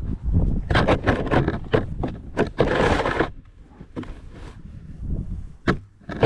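Snow shovel scraping and scooping snow off the driveway in a run of rough scrapes, quieter in the second half, with two sharp knocks of the shovel near the end.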